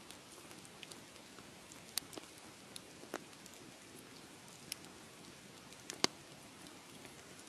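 Wood fire crackling, with a steady soft hiss and scattered sharp pops and snaps. The loudest pop comes about six seconds in, with smaller ones near two and three seconds.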